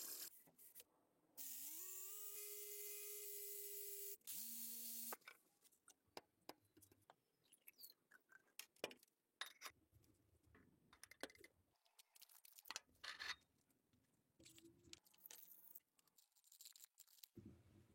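A small electric power tool spinning up with a rising whine that then holds steady for about three seconds, followed by a brief lower-pitched run. After that come scattered light clicks, taps and scrapes of hand work on the workpiece.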